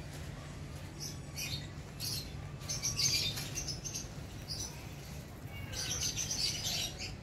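Small birds chirping in several short bursts of high notes, loudest about three seconds in and again near six seconds, over a low steady background hum.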